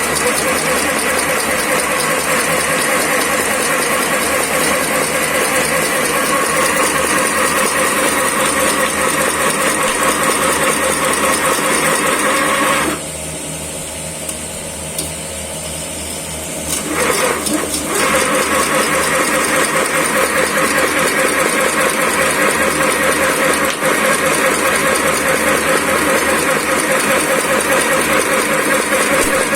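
Agarbatti (incense-stick) making machine running with a fast, steady mechanical clatter. About halfway through it stops for a few seconds, leaving a quieter hum, then starts up again.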